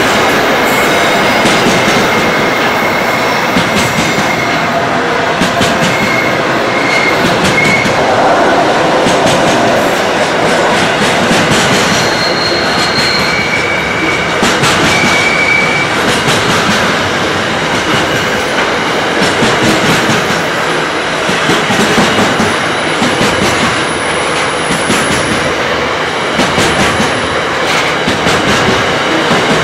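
Freight train's container wagons rolling past at a steady speed: a continuous wheel-on-rail rumble with wheels clicking over rail joints, and short high-pitched wheel squeals several times along the way.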